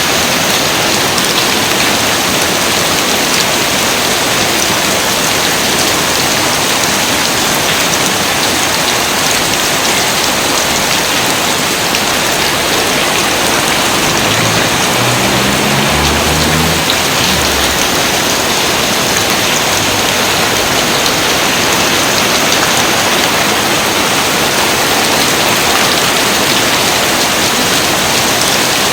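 Steady heavy rain: a dense, even hiss of falling drops that never lets up. A faint low rumble comes in briefly about halfway through.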